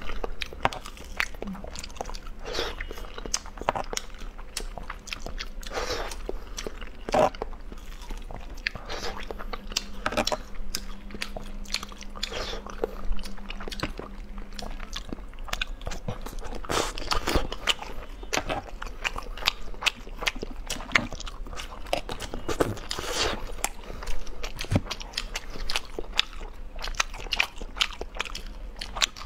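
Close-up eating sounds: irregular crunchy bites and chewing of food, many times over.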